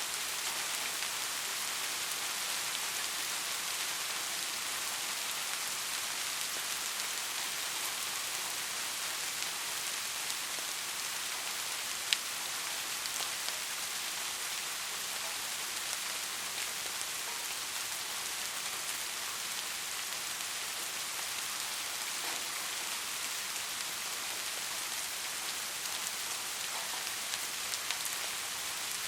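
Steady rain falling: an even hiss with scattered sharper drop hits, the loudest single drop about 12 seconds in.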